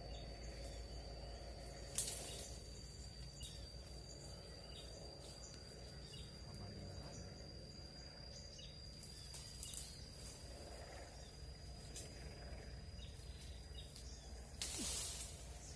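Quiet forest ambience: an insect holds one steady high-pitched drone that cuts off suddenly near the end, with faint short bird chirps scattered throughout. A sharp click about two seconds in and a brief rustle near the end.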